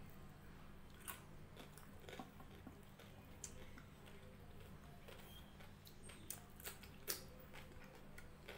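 Faint close-up chewing, with a few soft clicks scattered through, over a low steady hum.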